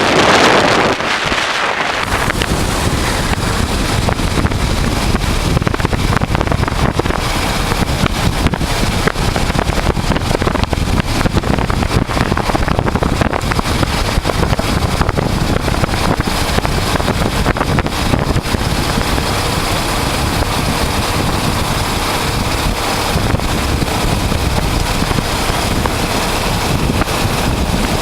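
Wind noise on the microphone over the steady running of a 1988 Honda Transalp's 600 cc V-twin engine, heard from the moving motorcycle. A brighter rush of wind fills the first second or two before the sound settles into a steady low rumble.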